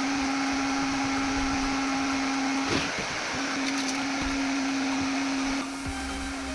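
A small electric motor with a fan running steadily, a hum over a rush of air, that falters briefly about three seconds in and drops a little in level near the end.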